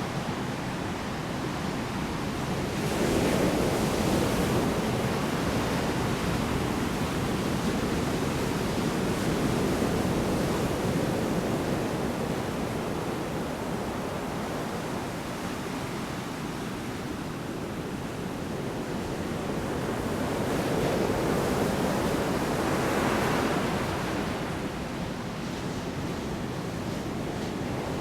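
Heavy surf in a storm: large waves breaking on the shore in a continuous wash, swelling louder about 3 seconds in and again past the 20-second mark, with some wind.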